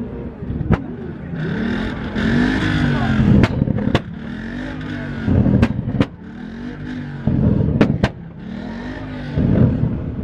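Car engine revved hard in repeated surges, its pitch climbing and falling back every second or two, with several sharp cracks from the exhaust.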